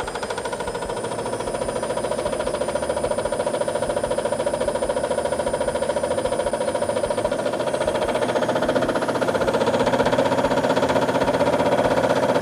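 Front-loading washing machine drum spinning up on its spin cycle with nothing inside, a fast rhythmic rumble that grows steadily louder as it gains speed. Its drum bearings are worn out.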